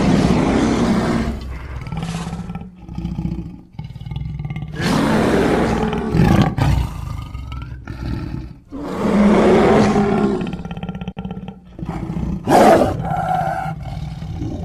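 Hodag monster sound effect, a designed creature voice layered from big-cat, boar and bear roars: three long roars, at the start, about five seconds in and about nine seconds in, with shorter growls between and a sharp short roar near the end.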